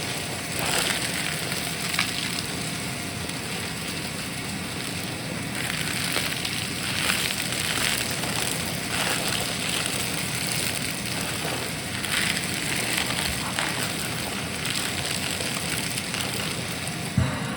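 Vacuum cleaner running steadily while sucking up crunchy debris, with bursts of crackling as the grit goes up the nozzle, several times.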